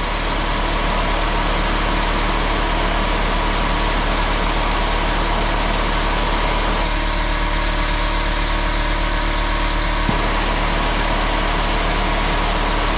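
Pneumatic angle grinder running steadily at speed, with a constant whine and air hiss, while it is being heated to destruction. A second, lower tone joins for about three seconds in the middle and stops with a click.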